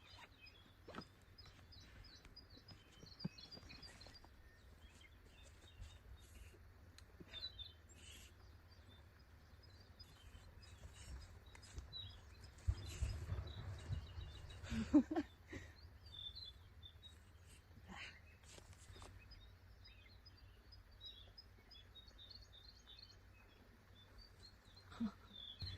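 Small birds chirping and singing throughout, with a few soft knocks and rustles, the loudest about halfway through.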